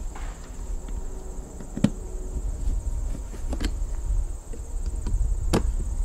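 A hand screwdriver drives the mounting screws of an RV shore-power inlet into the siding, giving three sharp clicks about two seconds apart. Insects drone steadily and high-pitched in the background.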